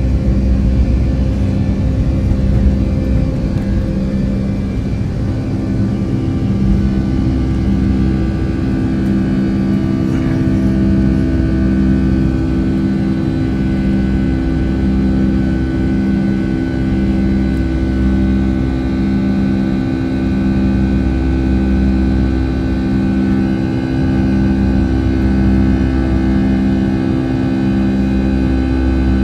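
Boeing 757-200 jet engines heard from inside the passenger cabin: a steady, loud drone with a low hum that beats about once a second.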